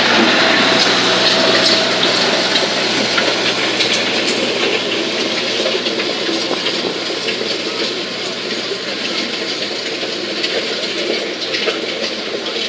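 Tractor engine running hard under load during a tractor pull: a steady, loud noise that slowly fades.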